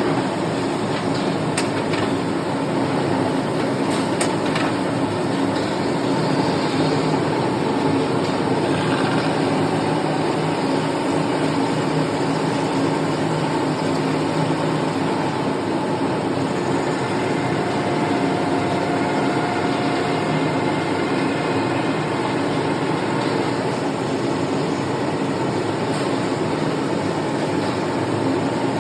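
CNC automatic lathe running steadily while machining, a constant mechanical hum with a few light ticks.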